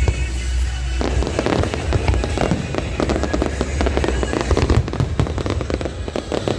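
Aerial fireworks bursting and crackling, with a dense run of pops and crackles starting about a second in over a steady low rumble, with music playing alongside.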